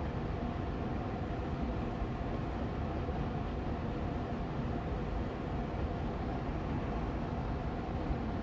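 Air purifier fan running steadily on medium speed: an even whooshing hum, heaviest in the low end, with a faint steady tone.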